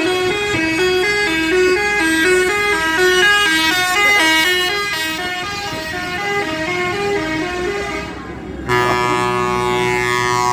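A musical horn playing a quick tune of stepped notes. About three-quarters of the way in it switches to one long steady horn blast.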